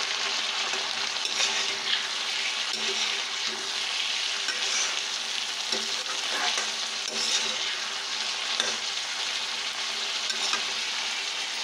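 Black chickpeas and onions sizzling in a kadhai as a perforated steel spatula stirs them, with occasional light scrapes of the spatula against the pan under a steady hiss.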